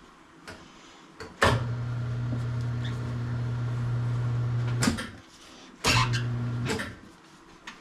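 Electric motor of a tire changer turning its turntable, a steady hum that starts with a click, runs about three and a half seconds, stops, then runs again for about a second, as a motorcycle tire is worked onto the rim with a bead clamp holding it down.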